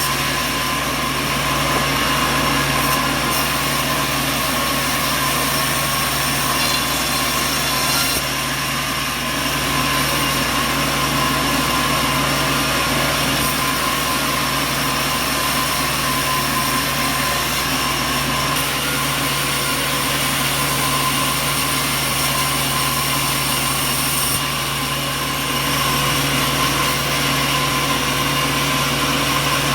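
Sawmill machinery running steadily, a continuous mechanical drone with a few constant tones and no breaks.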